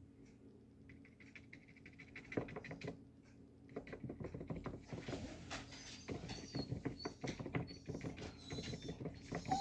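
A paintbrush working gouache onto paper in quick short strokes and dabs: a rapid, scratchy scraping and tapping of bristles on paper. It is sparse at first, with a burst about two seconds in, and runs dense from about four seconds in.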